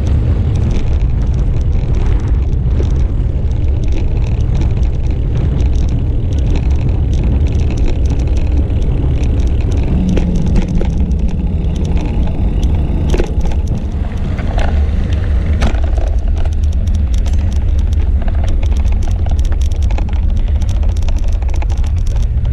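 Steady low rumble of wind and road noise from a moving bicycle on an action camera's microphone, with scattered clicks and rattles.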